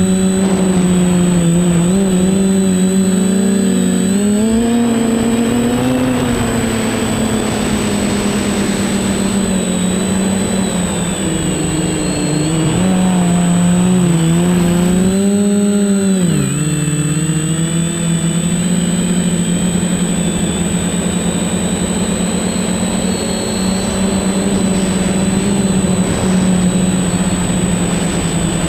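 Quadcopter's electric motors and propellers whining steadily, the pitch rising and falling with the throttle, dipping sharply twice (near the start and about halfway through) before climbing again. A faint steady high tone sits above it.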